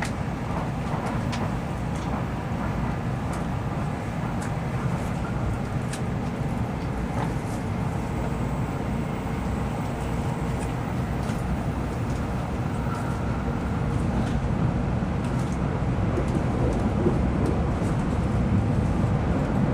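Steady running noise inside a Shinkansen car at speed: a low rumble with scattered faint ticks, growing slightly louder over the last few seconds.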